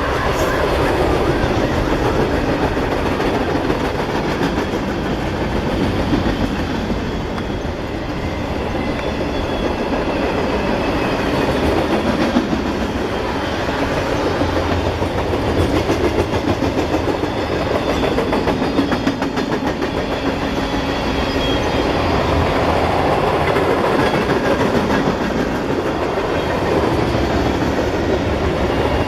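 Freight train cars rolling past on the rails, a loud, steady run of wheel and car noise that keeps up without a break.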